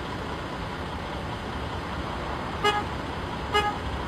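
Two short, flat-pitched horn toots about a second apart over a steady rumbling background.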